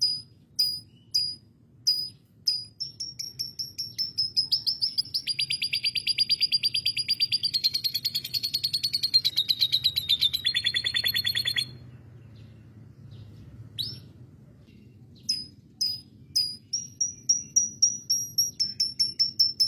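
Canary singing: short sharp chirps repeated about twice a second, running into long rapid trills from about four to twelve seconds in, a pause of a few seconds, then the repeated chirps again, quickening near the end.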